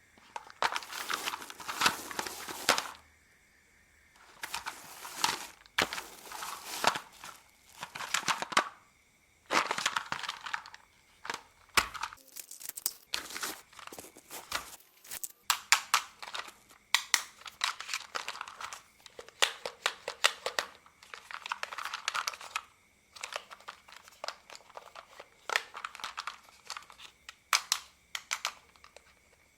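Hard plastic toy parts being handled, with crinkling plastic rustles and sharp clicks. The sound comes in spells of one to three seconds, with short pauses between them.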